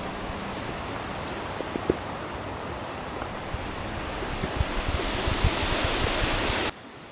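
Strong wind gusting and buffeting the microphone, swelling louder, then cutting off suddenly near the end.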